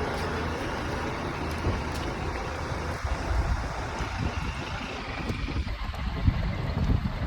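Bus under way: a steady low rumble of engine and road noise, with uneven low bumps from about three seconds in.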